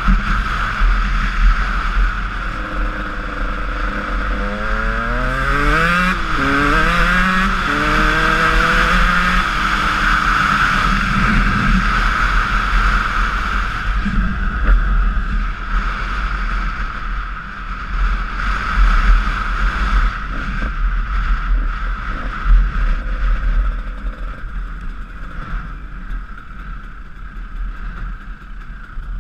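Honda CR125 two-stroke dirt bike engine running under way, its pitch climbing in several short rising steps between about 3 and 10 seconds in, with steady wind noise on the microphone.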